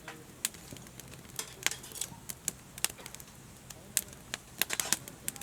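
Wood campfire crackling in a fire stand: irregular sharp pops and snaps, coming thicker near the end.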